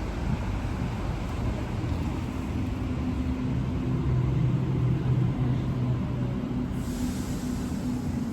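Electric passenger train at the platform, running with a steady low rumble and hum. Near the end there is a sudden hiss of released air, typical of the train's air brakes.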